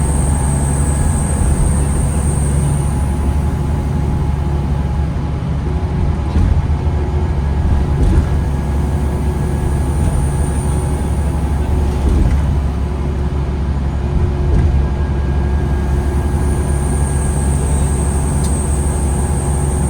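Diesel engine and drivetrain of a 2009 New Flyer D40LFR transit bus running, heard from inside the bus as a steady low rumble. A high whine fades in and out, near the start, around the middle and again near the end, with a few light knocks.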